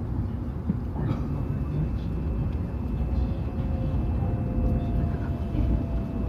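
Hokuriku Shinkansen train running, heard from inside the passenger cabin as a steady low rumble. A faint whine sinks slowly in pitch from about halfway in, as the train slows on its approach to the station.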